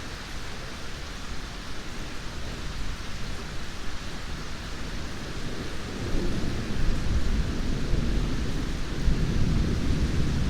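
Steady rain with a low rumble of thunder that swells about six seconds in and rolls on.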